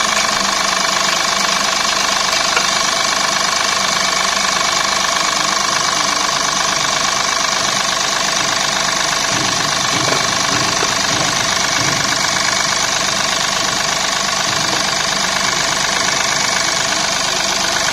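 Mahindra Bolero BS6 diesel engine idling steadily.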